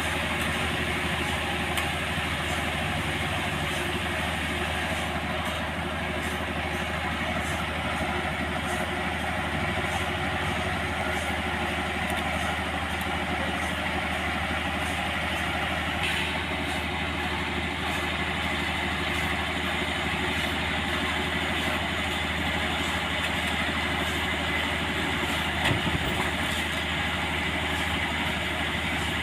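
Sawmill machinery running steadily, an engine-like drone under a steady rushing noise, with a brief knock near the end.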